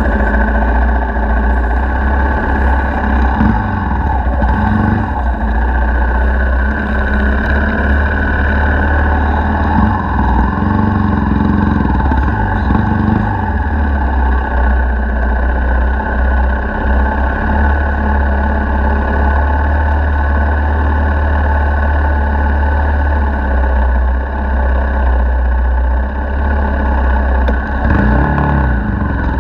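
Dirt bike engine running continuously, revving up and back down a few times.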